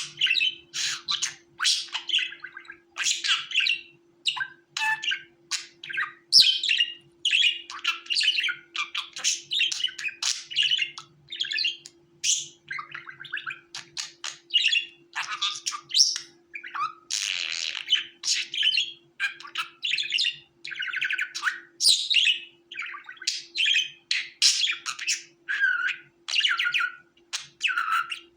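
Budgerigars chirping and warbling, several short calls a second with no break, like a flock chattering, over a faint steady hum.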